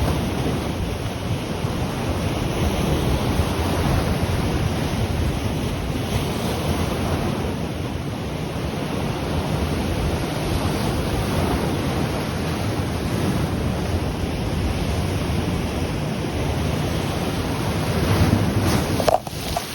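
Ocean waves breaking and washing on the shore, with wind buffeting the microphone. The sound stays steady, with a brief dropout just before the end.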